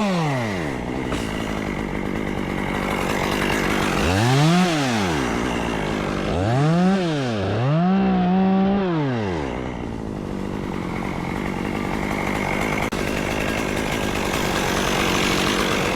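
Two-stroke chainsaw dropping to idle, then revved to full throttle three times in quick succession a few seconds in, the last held for about two seconds, before settling back to idle.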